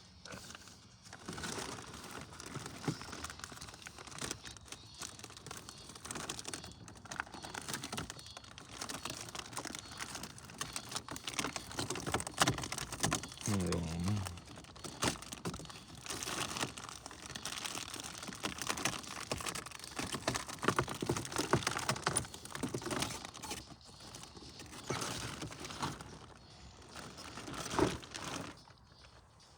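Footsteps crunching and crinkling along a trail, a steady run of crackly steps on loose ground.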